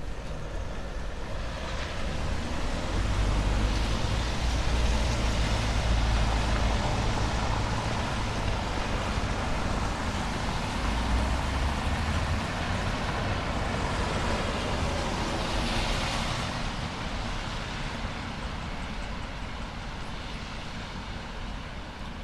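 Road traffic on a wet city street: a heavy vehicle's low rumble swells a few seconds in and fades over the second half, over a steady hiss of tyres on wet pavement.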